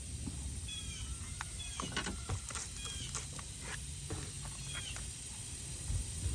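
A small bird chirping repeatedly, short high chirps about a second apart, with scattered clicks and knocks over a low background rumble.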